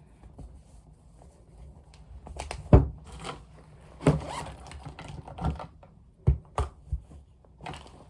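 A string of irregular knocks and clicks, as of objects being handled and set down, the loudest about three seconds in and a quicker cluster of them near the end.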